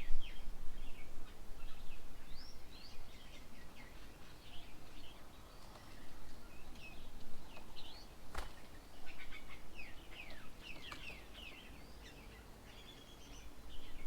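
Several birds chirping and calling in quick, high, short notes, some sliding up or down, busiest near the start and again around ten seconds in. A single sharp click comes a little past eight seconds.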